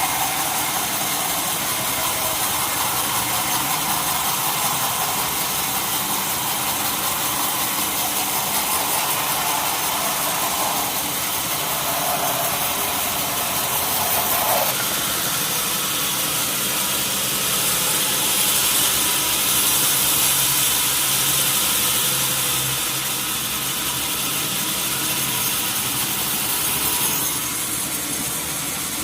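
Band sawmill (wheel saw) running with a steady mechanical noise of motor and blade. The noise changes partway through, then turns brighter and hissier for about ten seconds before cutting back near the end.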